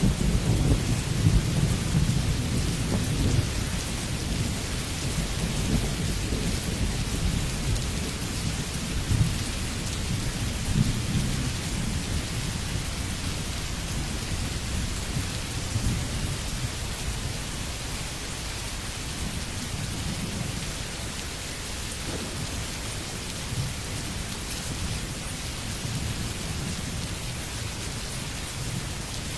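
Steady heavy rain hissing, with a low rumble of thunder under it that is strongest in the first few seconds and then eases off.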